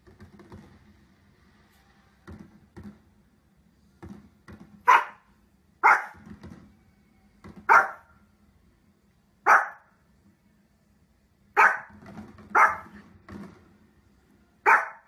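A dog barking in single sharp barks: a few quieter ones first, then seven loud barks spaced about one to two seconds apart.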